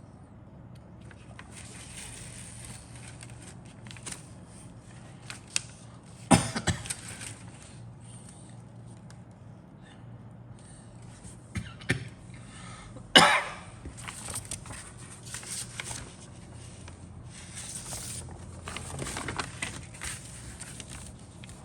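Rustling, crinkling and clicking of a plastic model kit's parts and bags being handled, with two louder sharp sounds about six and thirteen seconds in.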